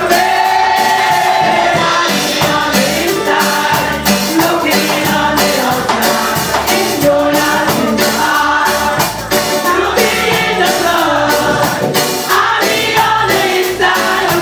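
A choir singing a gospel song, several voices together, with band accompaniment and a steady beat of drums and tambourine.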